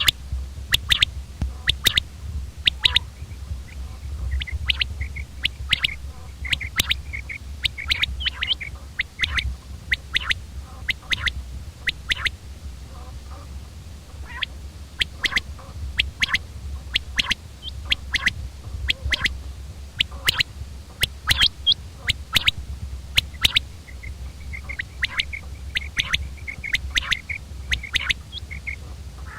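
Common quail calling: short, sharp notes repeated in quick clusters, over a steady low hum.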